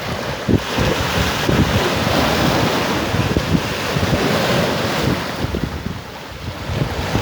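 Sea surf washing and breaking on the shore, with wind buffeting the microphone in uneven low gusts. The wash eases briefly about six seconds in.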